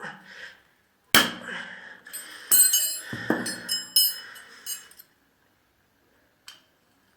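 Metal tools and engine parts knocking and clinking against each other during hand disassembly of a mower engine: a sharp knock about a second in, then a run of ringing metal clinks, ending about five seconds in.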